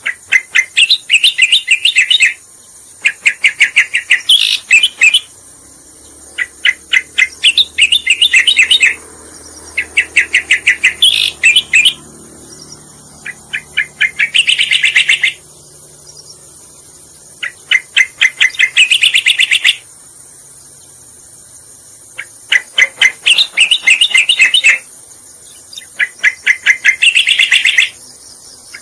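Cica koreng (striated grassbird) song played as a lure call: bouts of rapid, repeated chirping notes, each lasting two to three seconds, about eight bouts separated by short pauses.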